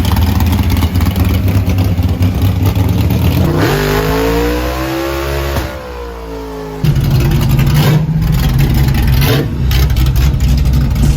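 Loud muscle-car engines running with a rough, popping idle. About four seconds in, one revs up and back down, and the heavy engine noise comes back abruptly near the seven-second mark.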